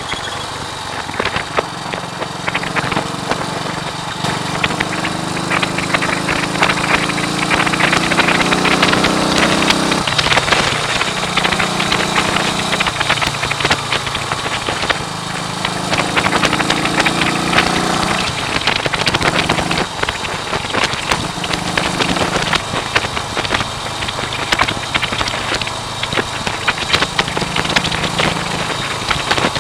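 1939 AJS Model 22 250 cc single-cylinder motorcycle engine under way, rising in pitch as it accelerates and falling back at several gear changes, half buried in loud wind noise on the microphone.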